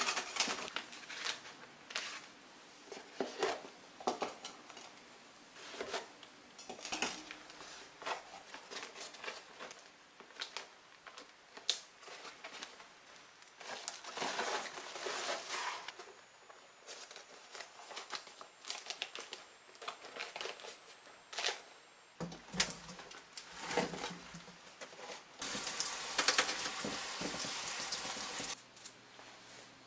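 Kitchen handling sounds from cleaning and storing produce: plastic wrapping crinkling and dishes and containers clinking and tapping in short scattered bursts, with a steady rushing sound for about three seconds near the end.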